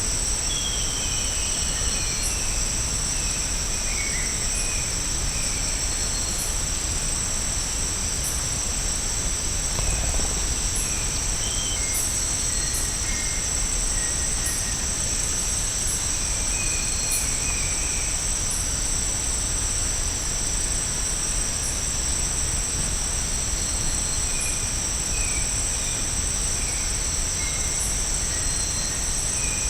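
Rainforest ambience: a steady high-pitched insect drone, with scattered short bird chirps and calls over it.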